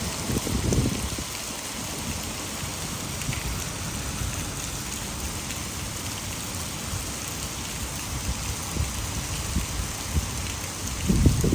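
Heavy rain falling steadily, mixed with water pouring over a hydroelectric dam. There are two brief low rumbles, about a second in and again near the end.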